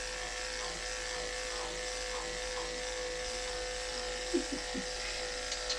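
Andis electric pet clippers running with a steady buzz while shaving matted fur off a cat.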